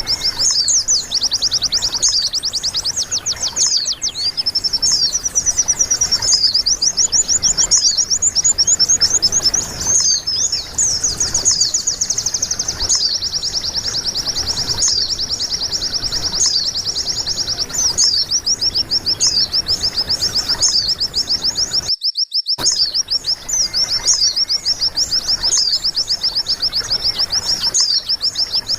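White-eye (pleci) song: a continuous stream of fast, high twittering and trills, played as a masteran tutor recording for training caged white-eyes. It cuts out completely for about half a second about three-quarters of the way through, then resumes.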